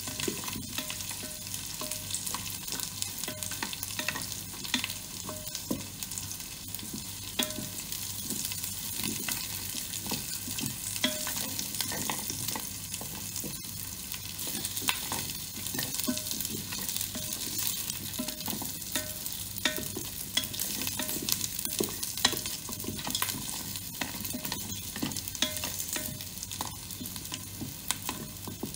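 Garlic cloves, ginger slices and whole spices sizzling in hot oil in a Ninja Foodi pot, stirred with a wooden spatula. The spatula scrapes and knocks against the pot many times.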